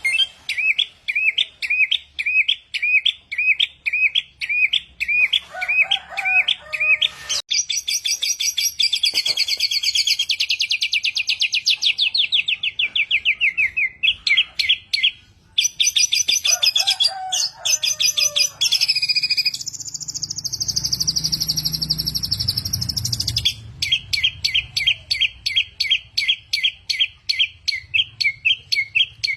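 A samyong songbird singing loudly in a varied, mimicking song: runs of sharp repeated chirps about two a second, fast trills, one of them falling in pitch, and assorted short phrases.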